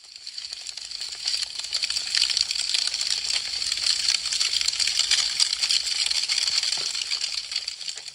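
Wood fire crackling: a fast, dense stream of small sharp crackles and pops from burning branches. It swells up over the first second or two and eases off near the end.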